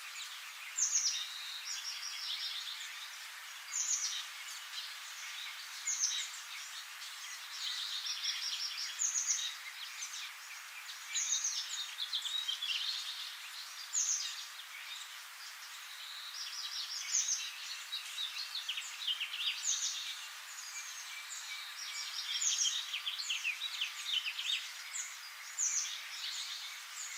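Birds singing: short high chirping phrases repeating every two to three seconds over a steady hiss.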